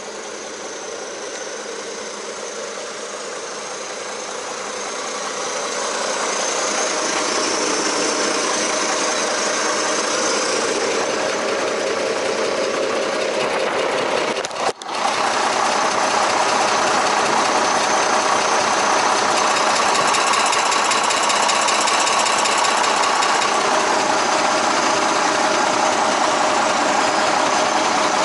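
DAF 95 ATI 400 truck's six-cylinder diesel engine running steadily, most likely at idle. It gets louder over the first few seconds, breaks off very briefly about halfway, then carries on louder.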